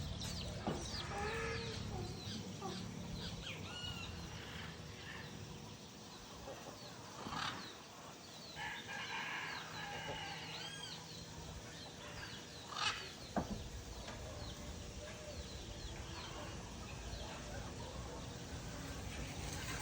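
Several birds calling on and off, short chirping and clucking calls in an open rural setting, with a couple of sharp knocks.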